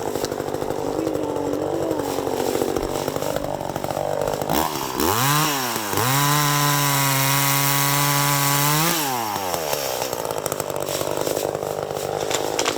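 Small two-stroke Echo chainsaw idling. About four and a half seconds in it is blipped up and back down, then held at high revs for about three seconds before dropping back to idle.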